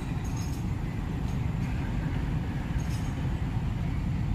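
Cement tank wagons of a freight train rolling past: a steady low rumble of steel wheels on rail, with a few brief high squeaks.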